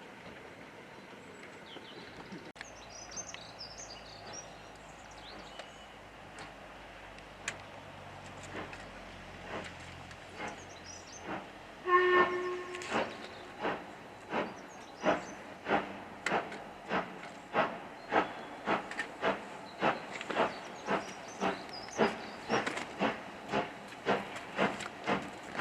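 Steam locomotive gives a short whistle, then pulls away with sharp exhaust beats that quicken steadily as it gathers speed. A few slow beats come before the whistle, and faint birdsong is heard near the start.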